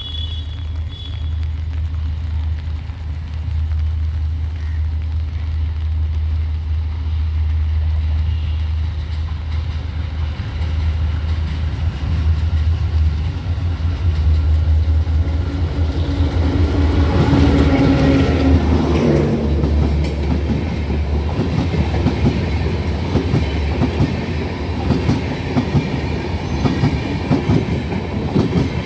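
Mitali Express passenger train passing: its diesel locomotive approaches with a low rumble. The locomotive's drone dips in pitch as it goes by about two-thirds in. After that, the coaches' wheels clatter in a fast run of clicks over the rail joints.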